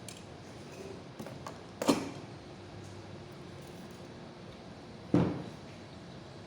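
Knocks and clicks from objects being handled and set down: two sharp thuds about three seconds apart, with a few lighter clicks between them.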